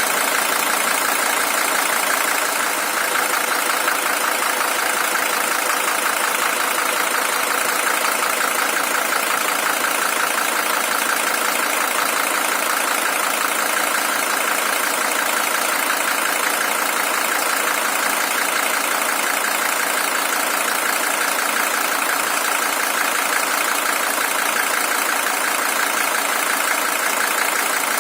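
Mercedes-Benz OM617 five-cylinder diesel in a W123 300TD idling steadily, with an even, rapid diesel clatter. It is the original engine, at 620,000 km.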